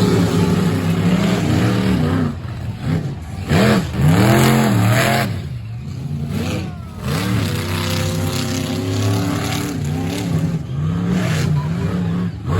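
Monster truck engines revving hard and racing, the pitch swooping up and down with repeated revs and then holding a steadier note.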